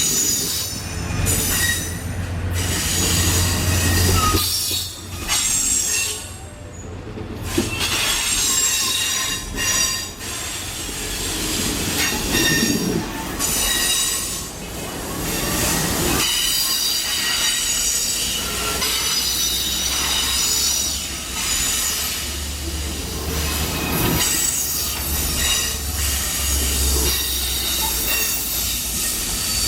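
Amtrak passenger train rolling through the station with its wheels squealing in several steady high-pitched tones, over the low rumble of diesel-electric locomotives.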